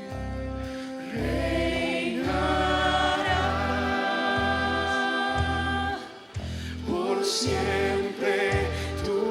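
Christian worship music: sung voices with vibrato over bass notes in a steady rhythm.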